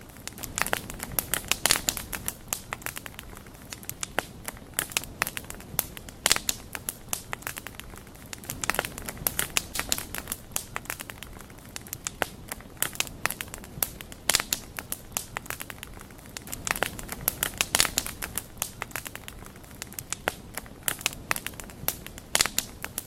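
Wood fire crackling steadily, with dense, irregular sharp pops and snaps over a low, steady rushing sound.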